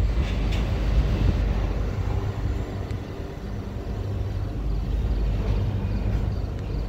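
Double-stack intermodal freight train rolling past, a steady low rumble of wheels on rail.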